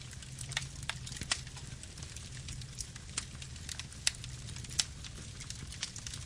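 Wood fire burning: scattered sharp crackles and pops over a low steady rumble, the loudest pops about four and five seconds in.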